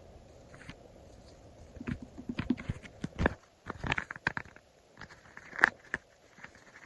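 Stickers being handled close up, peeled off and pressed down onto paper: irregular soft taps, crinkles and scrapes, with two sharper clicks a little before and a little after the middle.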